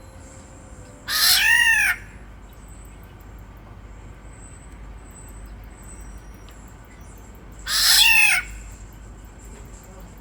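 Kepodang (oriole) giving two loud, harsh nasal calls about six seconds apart. Each call lasts under a second and rises then falls in pitch.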